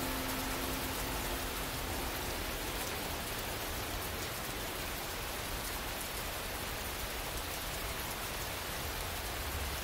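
Steady rain falling, an even hiss with a low rumble beneath it; the last held piano notes fade out in the first couple of seconds.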